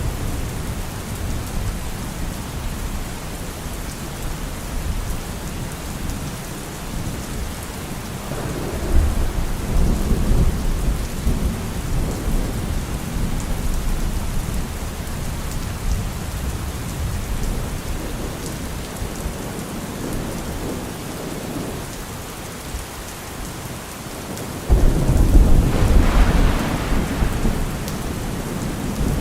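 Thunderstorm: steady heavy rain with rolling thunder, a low rumble swelling about eight seconds in and a louder thunderclap breaking in suddenly near the end and rumbling on.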